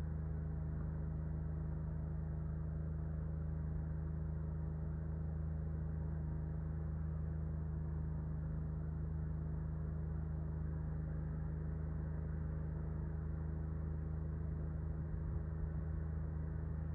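A steady low mechanical hum made of several held tones, unchanging throughout.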